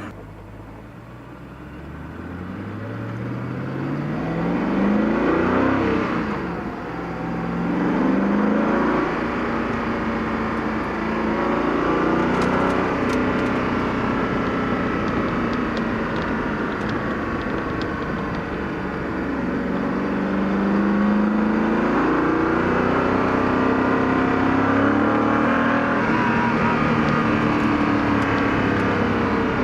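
Koenigsegg CC8S's supercharged V8 accelerating, its revs climbing, dropping away and climbing again several times as it pulls through the gears.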